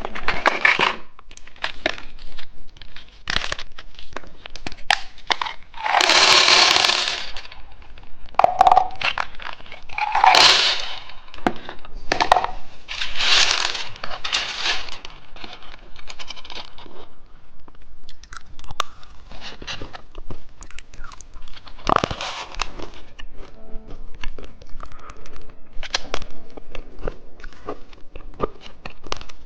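Plastic candy wrappers crinkling and tearing as sweets are opened, in several loud rustling bursts, mixed with sharp cracks and crunching as hard candy is bitten and chewed.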